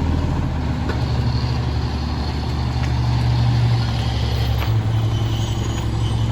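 Diesel engine of a Mack LE garbage truck running, its hum rising for about a second between three and four seconds in, with a few faint clicks and knocks.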